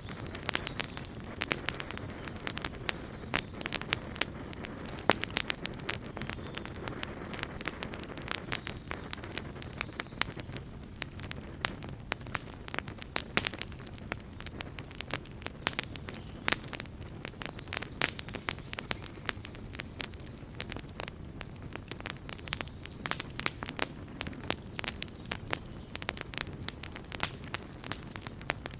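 Wood campfire burning steadily, with a dense, irregular crackle and pops over the low rush of the flames.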